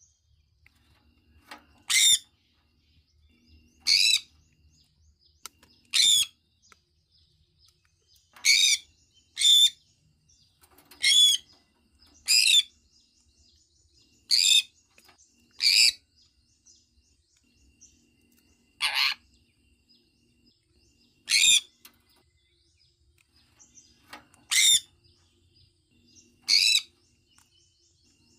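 Sun conure giving short, sharp, high-pitched chirps one at a time, about every two seconds. One call a little past the middle reaches lower in pitch than the rest.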